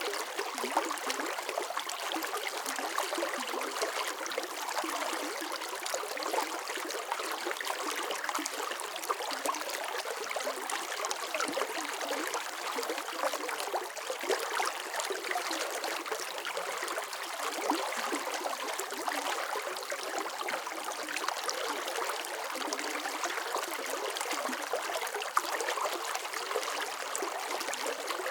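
Running water flowing steadily: an even, continuous splashing rush with fine droplet detail and little deep rumble.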